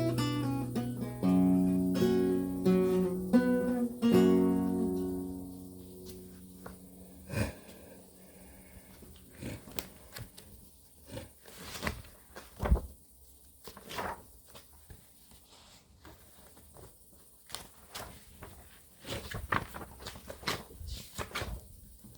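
Renaissance lute plucked through the end of a phrase, closing on a chord that rings out and fades over a few seconds. After that the instrument falls silent, leaving only scattered soft clicks and knocks.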